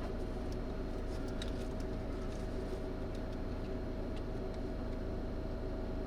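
Steady hum of a vehicle running, heard from inside the car, with a few faint ticks.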